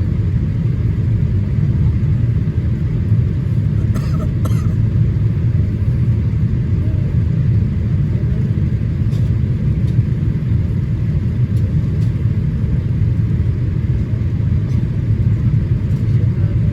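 Steady low rumble of a Boeing 787-8 in flight on approach, heard as engine and airflow noise inside the cabin, with two faint clicks about four seconds in.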